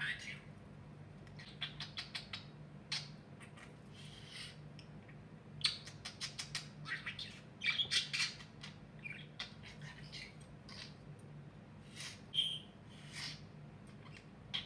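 Budgerigar chattering and chirping in quick runs of short, sharp calls, with brief pauses between runs.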